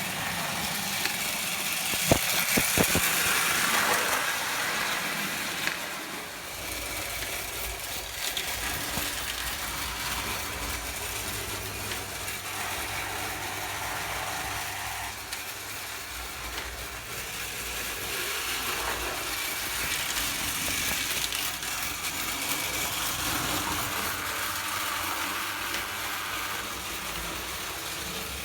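Prewar Lionel 0 gauge toy electric locomotive running on track: its motor and gears make a steady mechanical whirr and rattle. There are a few sharp clicks about two seconds in, and a low hum joins at about six seconds.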